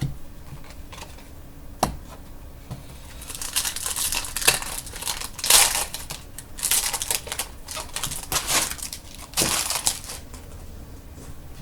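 Foil trading-card pack wrapper crinkling as it is handled and torn open, in bursts of crackling with a single click before them.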